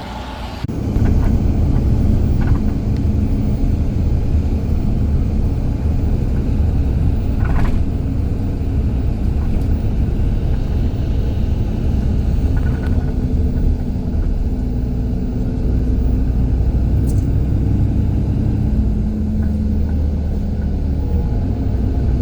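Road vehicle engine and road noise, a steady low rumble with a low hum that starts suddenly about a second in.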